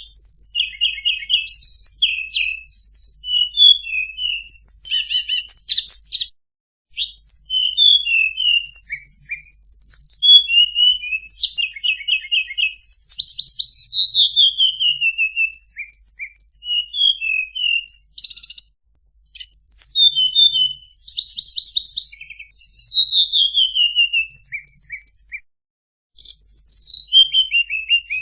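Tledekan songbird singing: rapid high chirps, quick trills and downward-sliding runs in a long varied song, broken by a few brief pauses.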